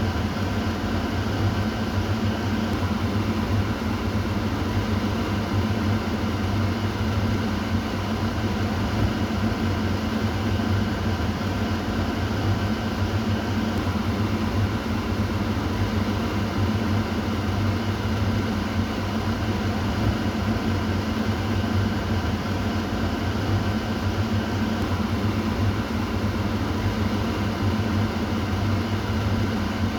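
Kitchen exhaust fan running steadily: an even whooshing hum with a low drone and faint steady tones, unchanging throughout.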